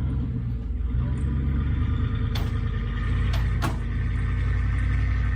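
Truck engine running steadily while towing the camper, with three sharp clanks partway through.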